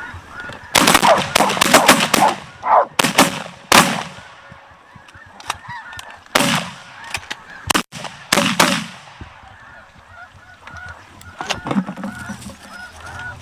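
Several shotguns firing a rapid volley in the first couple of seconds, then more scattered shots, over the constant high honking of a flock of snow geese.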